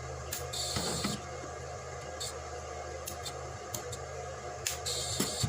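Arc welder humming steadily, with two short bursts of crackling hiss from a stick-welding arc, about a second in and again near the end, and a few sharp clicks.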